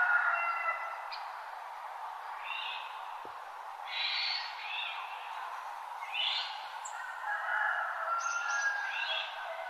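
Dawn birdsong from several birds: short chirping phrases repeating every second or two, with longer whistled notes near the start and again in the second half, over a steady background hiss.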